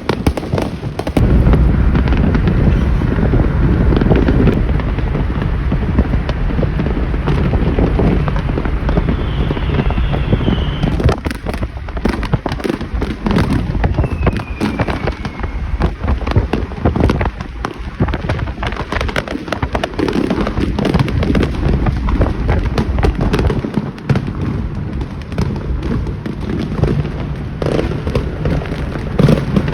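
Fireworks going off in a dense, continuous barrage of overlapping bangs and crackling over deep booms, with a couple of short whistles partway through.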